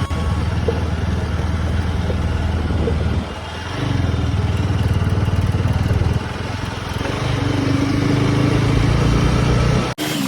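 Bajaj Pulsar RS200 single-cylinder motorcycle engine running while riding. The note dips briefly a little over three seconds in and shifts again around six seconds. It cuts off abruptly for an instant near the end.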